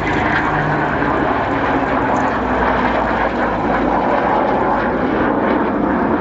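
Propeller-driven piston-engined aircraft flying at an air display, its engine noise loud and steady.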